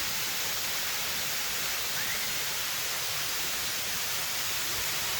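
Steady, even rush of a 75-foot waterfall.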